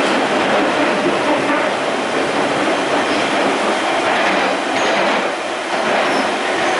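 Train in motion on the rails: a loud, steady rumble and rattle of wheels and track.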